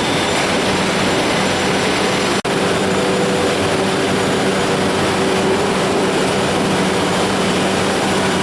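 CNC beam drilling machine running under test: a steady loud mechanical noise with a constant low hum. It drops out for an instant about two and a half seconds in, after which a higher steady tone joins.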